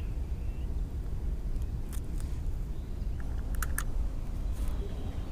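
A few light clicks and ticks of fishing tackle being handled while rigging a bait, over a steady low rumble.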